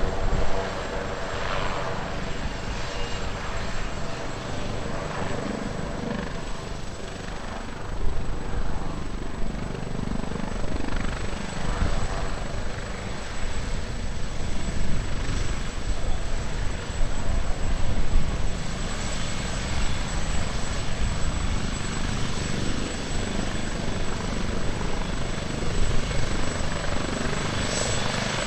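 AgustaWestland AW139 twin-turbine helicopter running steadily, its rotor and engine noise continuous with small swells in level.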